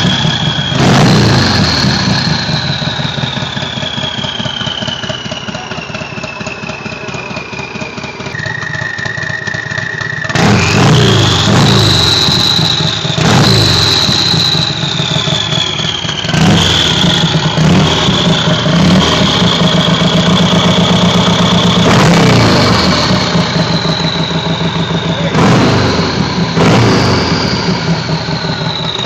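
Turbocharged motorcycle engine revved several times between stretches of lumpy idle. A high turbo whistle rises with each rev and slowly winds down as the engine settles.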